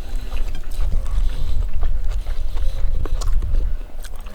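Wind buffeting the microphone: a heavy, steady low rumble, with a few faint clicks over it.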